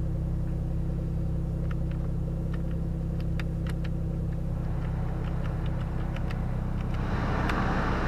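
Toyota Supra Mk4's 2JZ straight-six idling steadily, with scattered light clicks. Near the end a rush of air swells up, like the climate-control blower coming on.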